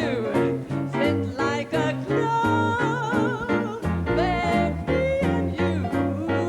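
Swing jazz with a steady walking bass under a melody line sung or played with heavy vibrato.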